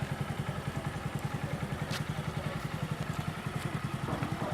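A small engine running at idle, a steady low chugging of about nine beats a second, with a sharp click about two seconds in.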